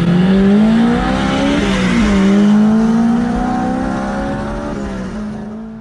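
Turbocharged car engine accelerating hard: the revs climb, drop sharply with an upshift about two seconds in, then climb again more slowly as the sound gradually fades.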